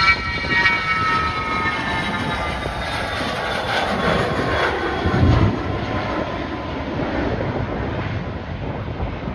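Jet airliner passing close by. Its engines' whine slides slowly down in pitch and fades over the first few seconds, over a steady rush of engine noise.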